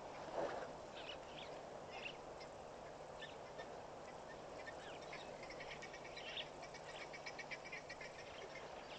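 Birds calling: scattered short calls, then a fast run of repeated calls in the middle, over a steady background hiss and a low hum. A brief louder sound comes about half a second in.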